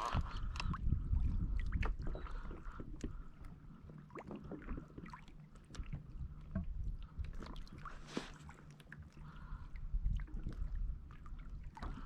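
Water lapping and sloshing against a Hobie Revolution 13 kayak's hull, with scattered small knocks and clicks from the gear aboard and a low rumble that swells about a second in and again near the end.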